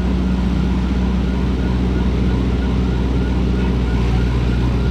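Steady low drone of a vehicle, with a faint warbling tone repeating about three times a second.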